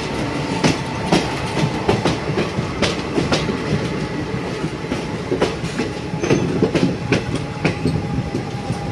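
Empty BOXN freight wagons rolling on the track, their wheels clattering and clicking over rail joints at an uneven rhythm over a steady rumble.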